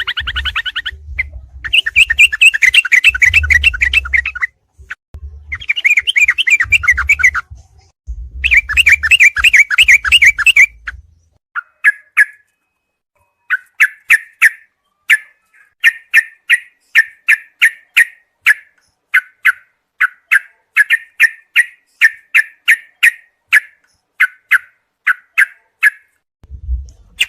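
Yellow-vented bulbul (trucukan) song: rapid chattering strings of notes over a low rumble for the first ten seconds or so. These give way to a long run of short separate chirps, about two a second.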